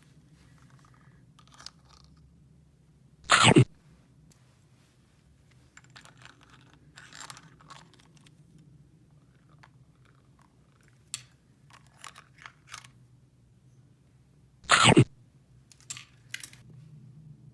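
Small objects being handled, making scattered light clicks and rustles, with two short, loud crunching bursts about three and a half seconds in and near the end.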